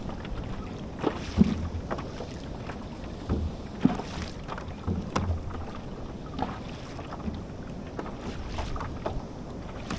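Wind buffeting the microphone on a fishing kayak, with scattered knocks and thumps on the hull and gear.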